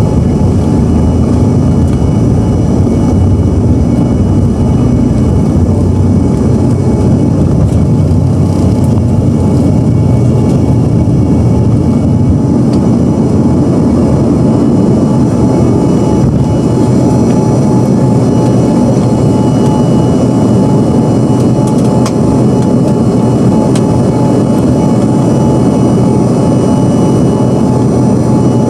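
Embraer ERJ-145's two rear-mounted Rolls-Royce AE3007 turbofans at high power, heard from inside the cabin: a loud, steady rush with a faint high whine on top.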